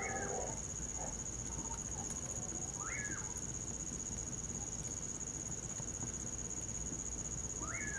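Common pauraque (bacurau) calling three times, each call a quick note that sweeps up and then falls away. Under it runs a steady high-pitched trill of crickets.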